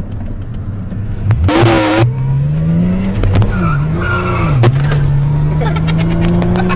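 Car engine revving hard during a drift, its note climbing about a second and a half in and held high with two short dips, over tyre noise and squeal; a short loud burst of noise comes as the engine climbs.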